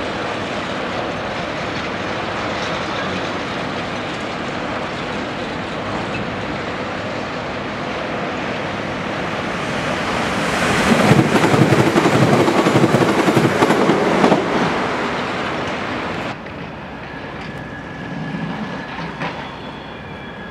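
Electric multiple unit passing close at speed: steady rail noise builds to its loudest over a few seconds about halfway through, with wheels clattering on the rails. After a sudden cut, quieter distant train noise follows, with faint high squealing.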